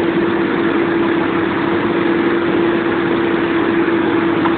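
Tow truck engine running steadily under load with a constant droning tone, as it strains to haul heavy equipment up a slope.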